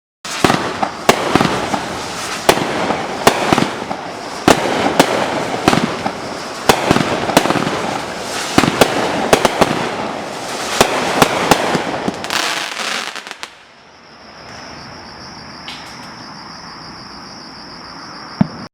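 Inked Pyro 'Tribal', a 16-shot consumer fireworks cake, firing: a rapid string of sharp bangs over a continuous crackling haze for about thirteen seconds. The firing then dies away, leaving insects trilling steadily at a high pitch.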